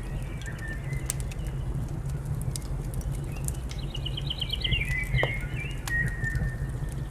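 Wood fire crackling in a fireplace, with scattered sharp pops over a steady low rumble. Small birds chirp over it, with a quick rapid trill about four seconds in.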